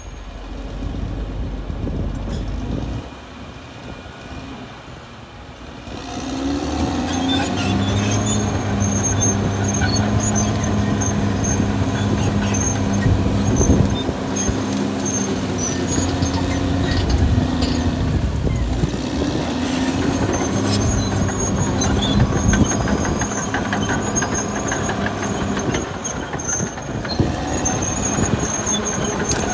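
Caterpillar D6R XL bulldozer's diesel engine running, quieter for a few seconds, then growing louder about six seconds in and running steadily hard, with light metallic clatter over it.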